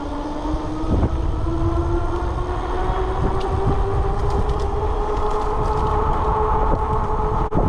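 Sivrock CJ500 e-bike's electric motor whining under full throttle, the whine rising steadily in pitch as the bike accelerates, over a heavy rumble of wind on the microphone.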